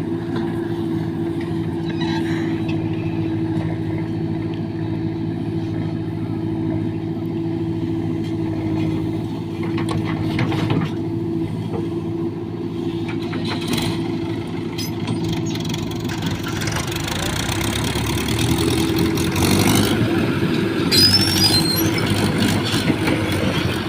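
JCB 3DX backhoe loader's diesel engine running steadily, getting louder in the last several seconds with some clatter and knocks as it works.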